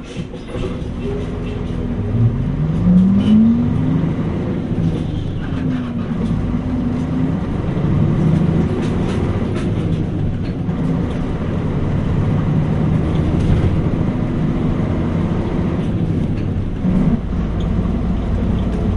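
Mitsubishi Fuso Aerostar K (U-MP218M) city bus's diesel engine heard from inside the cabin, revving up as the bus pulls away: the pitch rises about two seconds in, drops at a gear change, rises again, then the bus runs on steadily with road noise.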